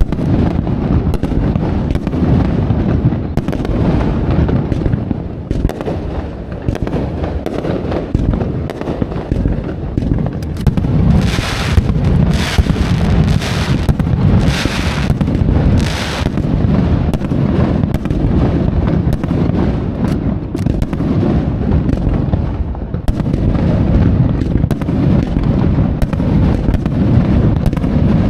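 Fireworks display: a steady barrage of bursting shells, a dense rumble of booms packed with sharp cracks. About halfway through come four bursts of hissing crackle, each about a second long.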